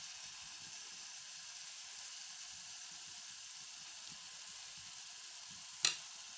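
Grated carrots sizzling steadily as they roast in ghee in a pan: the water has cooked off and the halwa is frying. A single sharp clink near the end.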